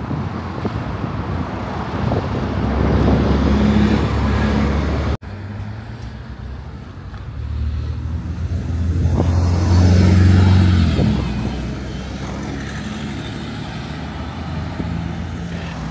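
Street traffic: motor vehicles pass close by twice, each time a low engine rumble that swells and fades over a few seconds, over a steady traffic noise. The sound breaks off abruptly once, about five seconds in.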